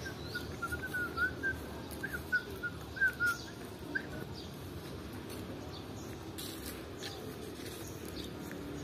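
A bird chirping: a quick run of short, bent notes during the first four seconds, over steady low background noise.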